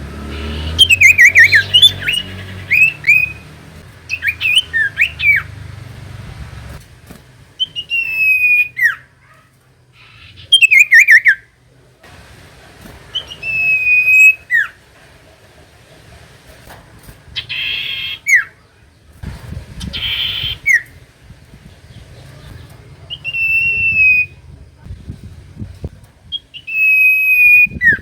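Common iora singing: clear whistled notes, many sliding down in pitch, given in repeated phrases a few seconds apart, with a couple of short harsh bursts in the middle.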